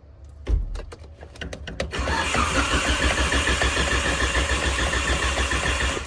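A thump and a few clicks, then a car's starter cranking the engine in a steady, rapid pulsing rhythm for about four seconds without it catching, and stopping near the end: a car that won't start.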